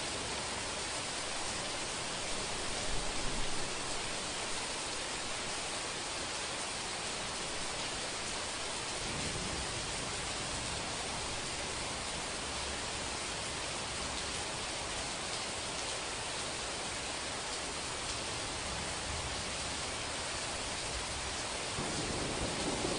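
Steady rain falling, an even hiss with no separate drops standing out. Near the end a low thunder rumble begins to build.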